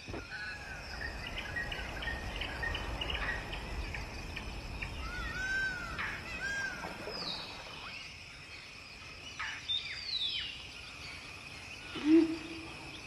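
Forest ambience: several birds calling, with repeated short chirps, arching whistled notes and a couple of falling whistles, over a steady high insect drone. A short, louder low call stands out near the end.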